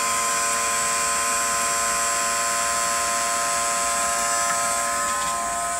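Automatic bilge pump's small electric motor running steadily with a high whine as it pumps water out of the bilge.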